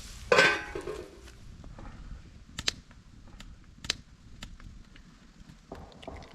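A knife chopping an onion on a cutting board: a louder scrape near the start, then scattered sharp taps about a second apart.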